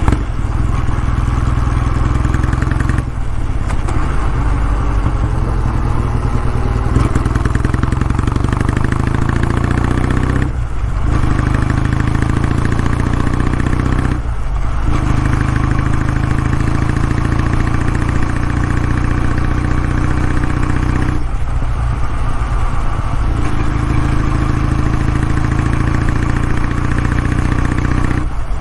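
Exhaust note of a Kawasaki W650's air-cooled parallel-twin engine running steadily, with several brief dips in the sound.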